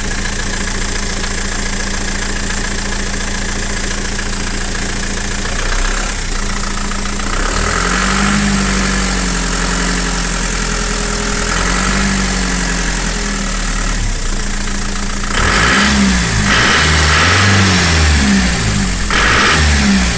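Vauxhall Frontera's 2.8 diesel engine idling steadily shortly after a cold start, then revved up and let fall back a few times, with quicker, harder revs in the last few seconds. It sounds healthy.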